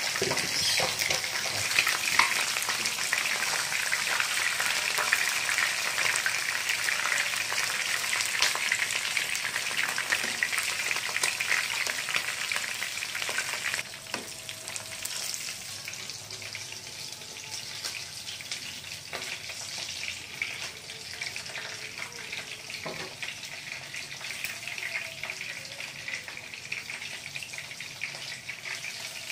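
Cooking sounds from fish frying in oil and a covered pot of vegetables boiling. A dense crackling sizzle for the first half drops suddenly about halfway to a quieter sizzle with scattered pops.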